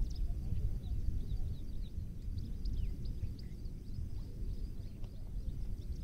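Small birds chirping: a busy stream of short, high, quick calls, several overlapping. Underneath is a louder, steady low rumble.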